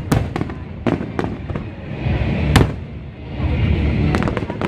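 Aerial fireworks bursting: sharp bangs just after the start, about a second in and again past the halfway mark, with a quick run of crackling reports near the end, over a continuous low rolling rumble.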